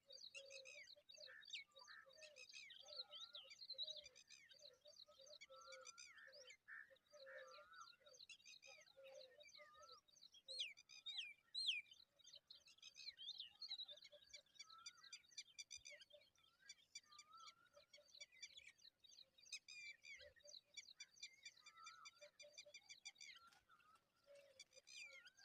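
Birds chirping and calling faintly: a busy mix of high chirps, slurred notes and rapid trills. A low note repeats steadily underneath for the first ten seconds or so.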